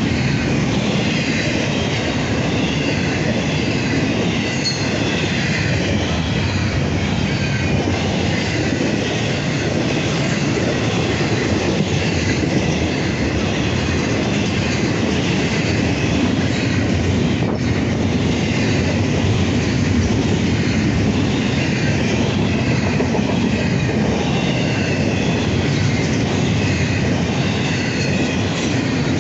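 Train cars rolling past without a break, wheels rumbling on the rails with a high, wavering squeal from the wheels.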